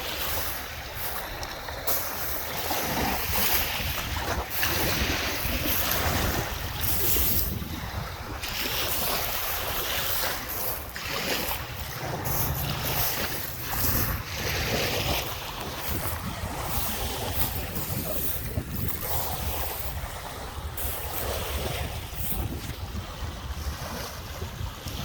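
Lake Michigan waves washing onto the shore in surges that swell and ease every few seconds, with wind buffeting the microphone.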